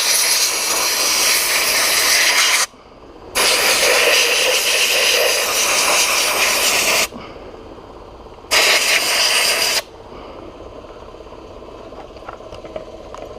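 Harbor Freight sand blast gun firing glass bead media with compressed air onto the engine: three long bursts of blasting, the third one short, with a lower steady noise between them and after.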